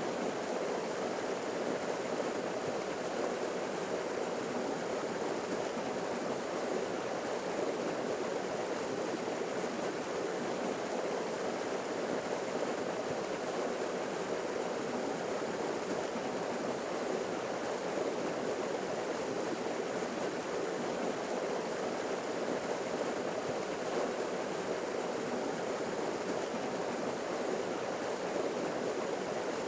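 Forest waterfall pouring steadily: an unbroken rushing of falling water.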